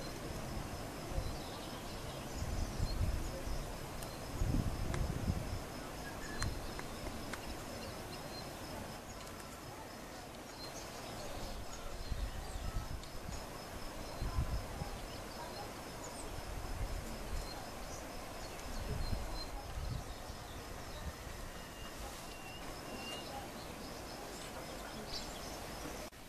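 Faint short chirps from a small songbird, with a brief whistled note near the end, over a rapid high-pitched ticking that runs through the first half. Low rumbling on the microphone comes in several brief bouts and is the loudest sound.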